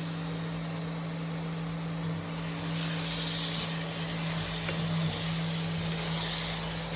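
Chopped onions sizzling in hot oil in a pan, the sizzle growing louder a little over two seconds in, over the steady hum of an induction cooktop.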